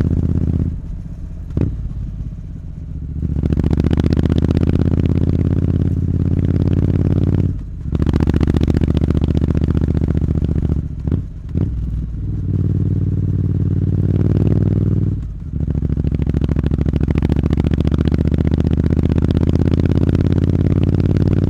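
Triumph Street Scrambler's parallel twin running through a Zard aftermarket muffler at a steady, loud engine note. The note dips briefly several times as the revs drop and come back.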